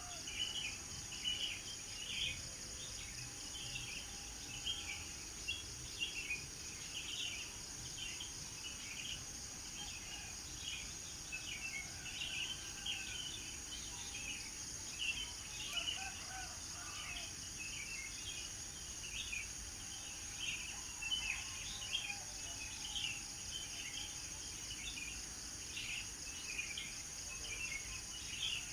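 Birds chirping in quick, overlapping short calls over a steady high-pitched insect drone, with a few lower calls now and then.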